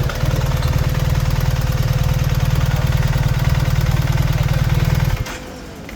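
Motorcycle engine idling steadily with a fast, even pulse, then cutting off suddenly about five seconds in.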